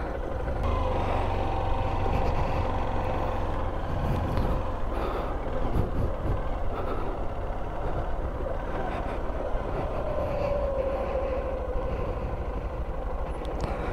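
A 125 cc learner motorcycle's engine running at steady revs through a slow U-turn.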